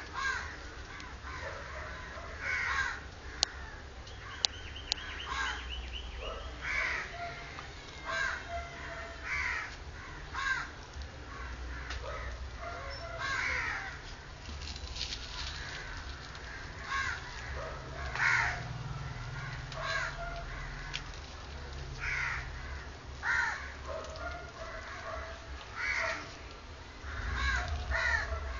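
Two-day-old Pomeranian-cross puppies squeaking and whining in short high cries, one every second or two.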